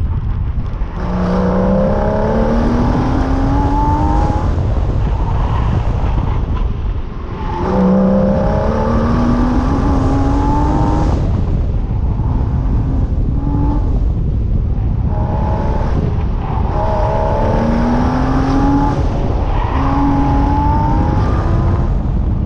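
2015 Porsche Cayman S's flat-six engine pulling hard on an autocross run, heard from outside the car. Its pitch climbs, drops and climbs again about six times as the driver accelerates and lifts between corners, over a heavy steady rumble.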